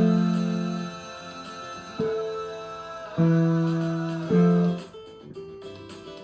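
Keyboard chords struck four times, each held and fading, over a backing track with a choppy rhythmic guitar part. After about five seconds only the backing continues.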